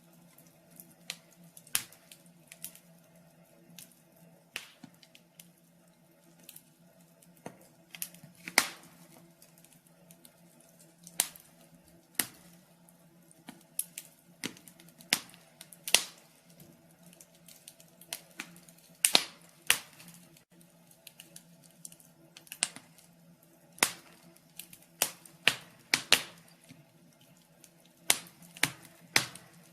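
Wood fire crackling, with irregular sharp pops and snaps from burning firewood, some much louder than the rest, over a faint steady low hum.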